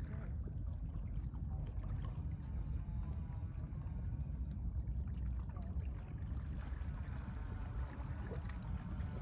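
Calm sea with small waves washing, under a steady low rumble.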